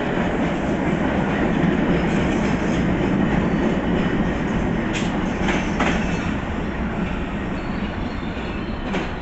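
Train running along the track through the station: a steady loud rumble of wheels on rail, with a few short sharper wheel noises about five to six seconds in and again near the end.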